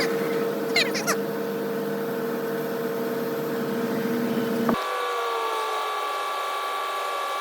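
A steady mechanical hum made of several held tones. About two-thirds of the way through it changes abruptly to a thinner, higher hum with a few slowly falling tones.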